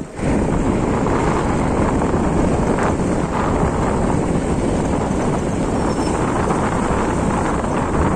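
Steady rush of wind on the microphone mixed with the rumble of a moving vehicle on the road.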